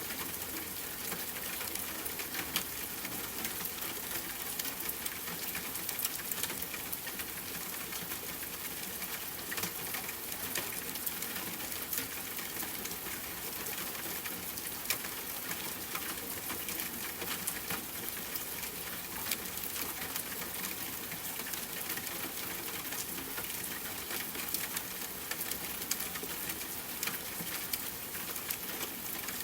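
Steady rain falling on a tent, with a campfire crackling in short sharp pops scattered through it.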